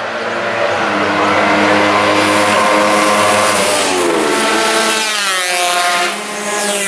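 Racing motorcycles passing at speed. A high-revving engine note holds steady, drops in pitch as a bike goes by, then rises again as the engines accelerate.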